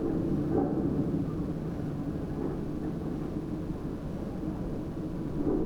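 Car driving slowly, a steady low rumble with slight swells.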